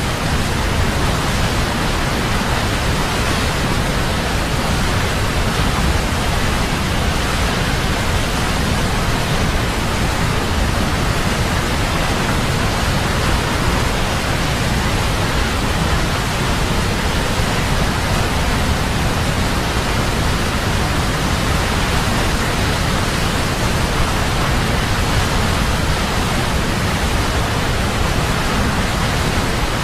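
Wli Falls waterfall rushing: a loud, steady roar of falling water.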